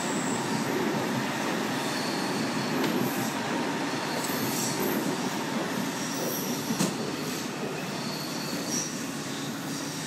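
Chinese CRH high-speed electric train running past at a station: a steady rumble of wheels on the track, with brief faint high-pitched wheel squeals now and then.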